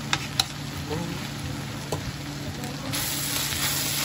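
Shredded bamboo shoots sizzling in a hot nonstick pan as they are stirred with a wooden spatula, with a few sharp clicks of the spatula against the pan in the first two seconds. The sizzle grows louder about three seconds in as the shoots are turned over.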